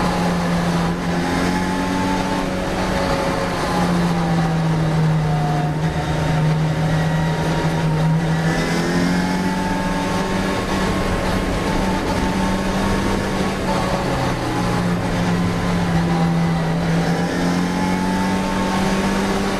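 Classic Mini racing car's engine running at fairly steady revs, its pitch rising and dipping only slightly.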